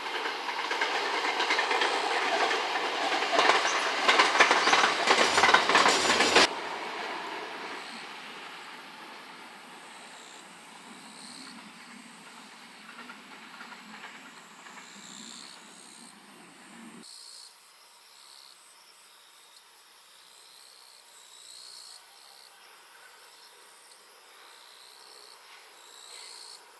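JR West 521 series electric train passing close by, its wheels clattering loudly over the rails for about six seconds before the sound cuts off abruptly. A more distant train then runs and fades. After about seventeen seconds only faint outdoor ambience is left, with insects chirping.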